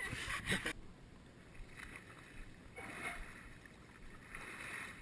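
Kayak paddle dipping and splashing in water, a few soft strokes about a second and a half apart, after a louder rustle that cuts off under a second in.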